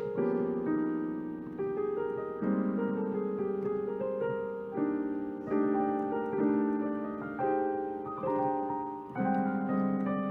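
Slow, relaxed jazz piano playing sustained chords, a new chord struck roughly every second.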